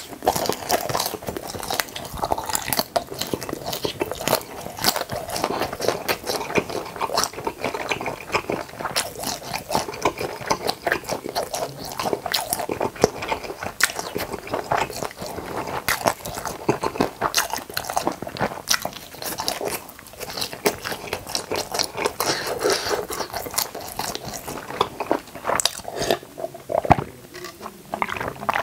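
Close-miked chewing of spicy tteokbokki: a dense, irregular run of small wet mouth clicks, smacks and bites.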